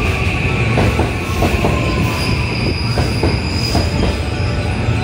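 Osaka Loop Line 323-series electric train pulling into the platform and slowing. The wheels give a steady high squeal over a low rumble, with clicks from the wheels and a tone that slowly falls in pitch as the train decelerates.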